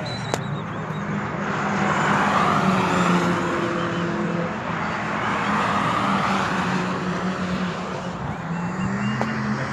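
Car engine running on a racetrack, a steady drone with the rush of tyres and air swelling twice as it passes. The engine pitch rises near the end.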